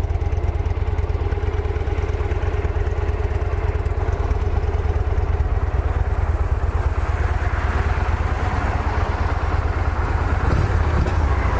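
A 2011 Victory Vision's 106-cubic-inch air-cooled V-twin idling steadily, running nice and quiet.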